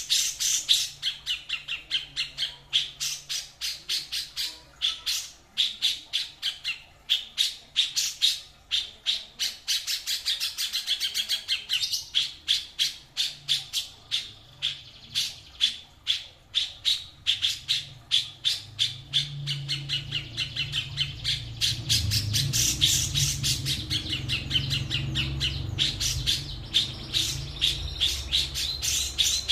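A caged songbird singing a long, fast run of short, sharp repeated notes, several a second, used as a tutor song for other songbirds to copy. A low hum joins about two-thirds of the way through.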